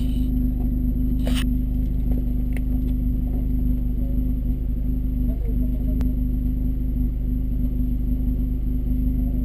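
Seat Leon Cupra R's 2.0 TSI turbocharged four-cylinder idling steadily, heard through a downpipe and high-flow sport catalytic converter with the stock cat-back exhaust. The engine is in a Stage 2 tune.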